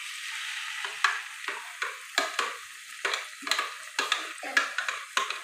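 Grated tomato mixture poured into a pot of frying onions, sizzling in the hot oil, with a run of short scraping knocks about two or three a second as it is scraped out of a plastic container.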